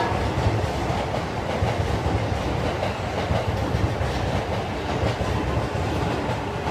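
E4 series MAX double-decker Shinkansen arriving at low speed: a steady rumble of the train and its wheels running on the rails.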